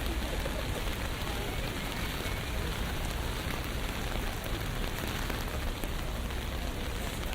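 Steady rain on a city street: a dense, even hiss with scattered drop ticks over a low rumble.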